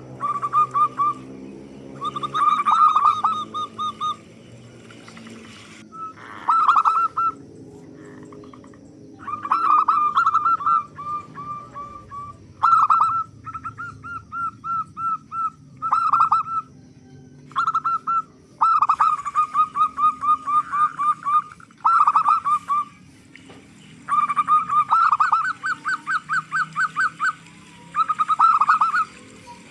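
Zebra dove (perkutut) cooing: repeated phrases of rapid staccato notes, each phrase one to two seconds long, with short pauses between them.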